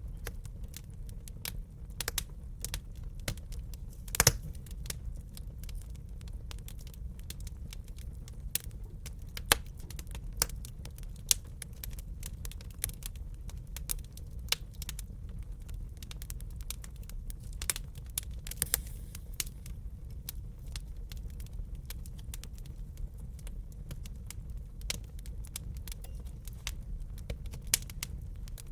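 Wood fire in a fireplace crackling: irregular sharp pops and snaps, a few louder ones, over a steady low rumble of burning.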